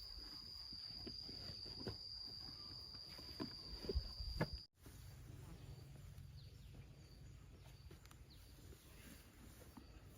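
A steady, high insect trill with a few soft knocks. It cuts off suddenly about halfway through, leaving only a faint low hum.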